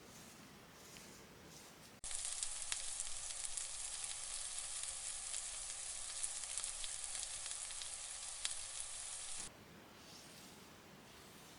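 A steady hiss with scattered crackles, lasting about seven seconds and cutting in and out abruptly.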